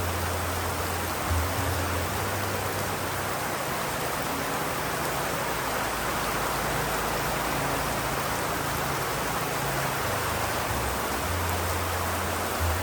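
Steady rain, an even hiss, with a low rumble underneath that swells about a second in and again near the end.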